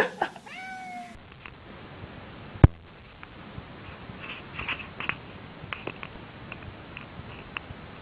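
A cat meows once, briefly, just after the start. About two and a half seconds in there is a single sharp knock, followed by faint scattered clicks.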